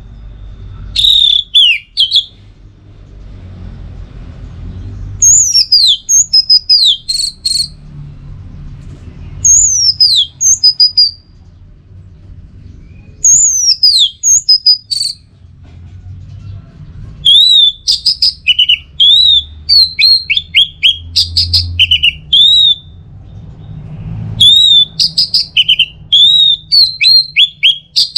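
Orange-headed thrush (anis merah) singing: short bouts of high whistled notes that fall quickly in pitch, with pauses between them, running together into a near-continuous stream of phrases in the second half, over a faint low rumble.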